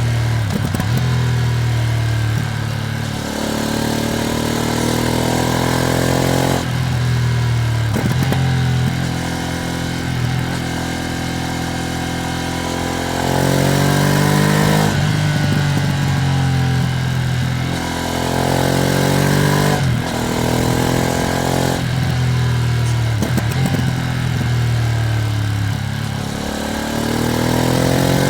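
Ducati Streetfighter V2S V-twin engine under way, its pitch climbing again and again and dropping suddenly between climbs, about every three to four seconds. This is the motorcycle being ridden through rises in revs and throttle lifts, with a steady rush of wind and road noise underneath.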